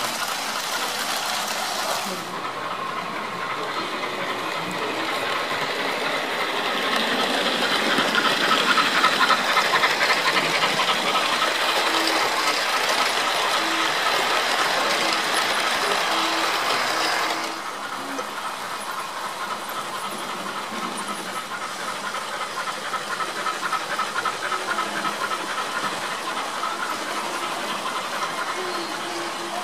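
Märklin HO-scale DB class 39 model steam locomotive's sound decoder playing a rhythmic steam chuff with hiss as the train runs. It grows louder towards the middle, then drops suddenly about 17 seconds in and carries on more quietly.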